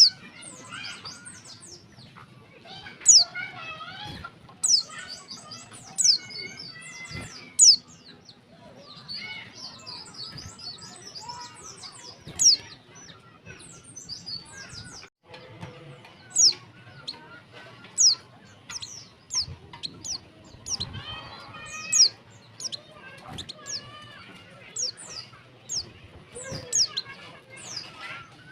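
Female white-eye (pleci) calling: short, sharp high notes that fall in pitch, repeated every second or two, with softer warbling chatter between them.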